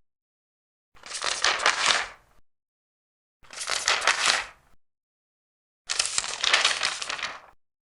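Large paper pages being turned, three turns each lasting about a second and a half, with a crisp rustle and crackle of paper.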